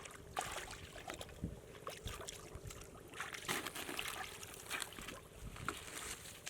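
Irregular splashing and trickling of shallow water, in short uneven bursts.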